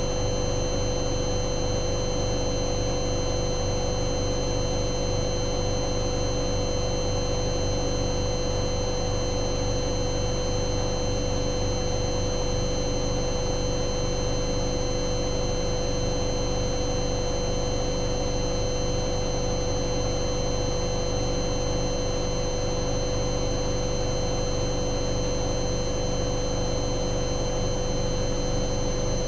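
Hoover Dynamic Next washing machine spinning steadily at high speed on a spin-only cycle: an even motor whine with several held tones over a low drum rumble, unchanging throughout.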